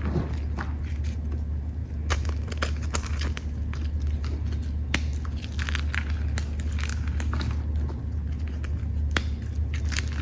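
Chalk and reformed chalk chunks crunching and crumbling close up, an irregular run of sharp crackly snaps over a steady low hum.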